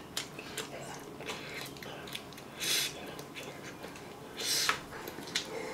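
Close-up eating sounds: small wet clicks of chewing, with two short hissing breaths, one a little under halfway through and one after about four and a half seconds.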